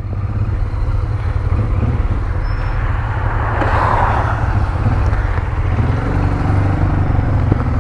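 Motorcycle engine running while riding, with wind and road noise over it. A clearer, steadier engine tone comes in about six seconds in.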